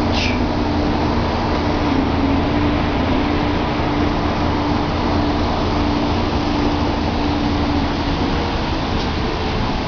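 Steady rumble of a motor vehicle, with a droning hum in it that fades out near the end. A brief falling squeak at the very start.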